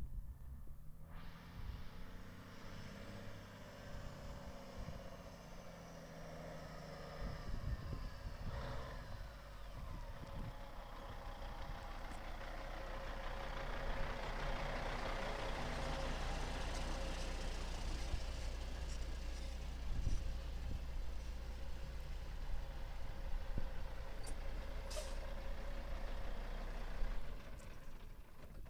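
1997 Kenworth T800 truck tractor's diesel engine running steadily, growing louder from about a third of the way in and then holding.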